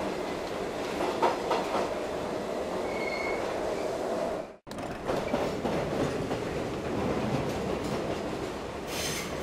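Train running on the rails: a steady rumble with a few clicks and a brief high squeal. The sound cuts out suddenly for a moment about four and a half seconds in, then carries on.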